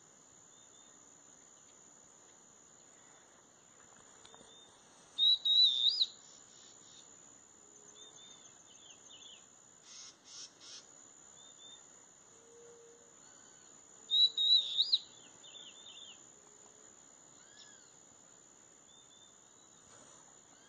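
Bird calls: two loud warbling phrases about nine seconds apart, with softer chirps between them, over a steady high-pitched whine.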